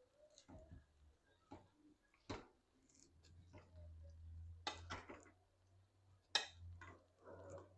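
A few faint clicks and knocks of pots and utensils being handled in a kitchen, two of them sharper, about two seconds in and near the end, over a faint low hum.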